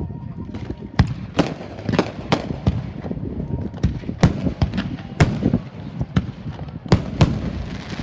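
Fireworks display: a rapid, irregular string of sharp bangs from bursting shells, about a dozen in eight seconds, with a low rumble between them.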